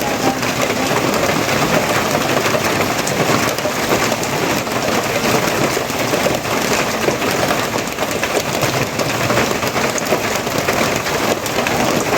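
Steady heavy rain falling on a surface, a dense even patter.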